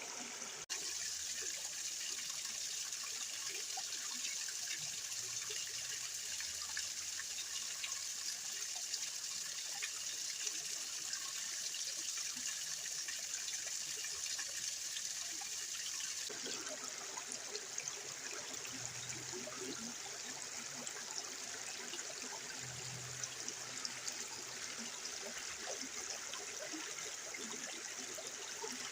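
Rainwater runoff trickling and splashing over small drops, a steady rush of water. The sound changes abruptly a little over halfway through.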